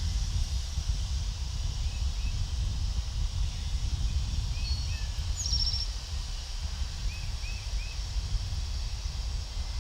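Outdoor ambience: a steady low rumble, with small birds chirping, a few short chirps in pairs and one quick trill about halfway through.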